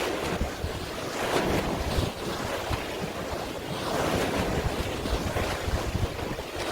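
Waves washing in, surging every few seconds, with wind rumbling on the microphone.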